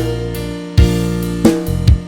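Band backing track for a Thai pop song, its guitar part removed: a few heavy drum-kit hits over held bass and keyboard chords.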